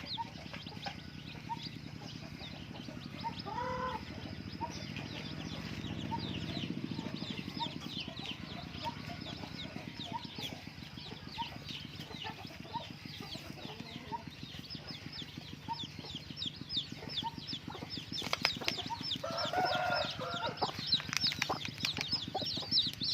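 A flock of chickens clucking, with many short, high peeps throughout and louder clucking calls about four seconds in and again near the end, over a steady low hum.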